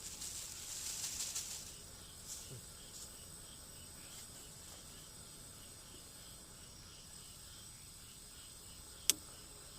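Insects calling steadily: a continuous high buzz with a fainter, evenly repeating chirp beneath it. For the first second and a half there is a crackling hiss, and a single sharp click comes about nine seconds in.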